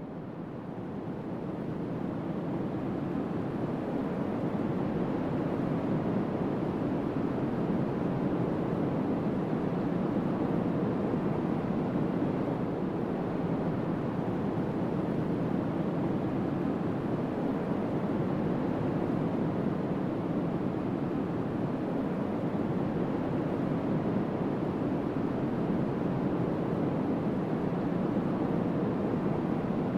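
Steady rushing of strong wind, buffeting the microphone, building over the first couple of seconds and then holding.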